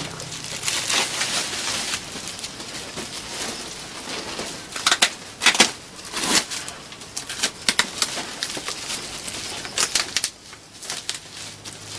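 A package being opened by hand: irregular rustling of wrapping and cardboard with several sharp tearing strokes, loudest around the middle.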